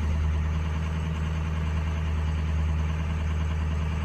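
Turbo diesel truck engine running steadily during a scan-tool turbo boost test; the engine has weak cylinders (2 and 7 dropping) that the mechanic says need new injectors.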